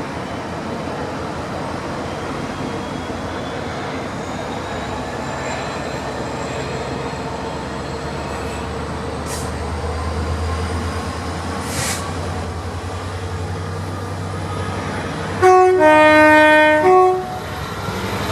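Diesel train running with a steady low rumble, then near the end it sounds its two-tone horn, a high-low-high blast of about a second and a half that is the loudest sound.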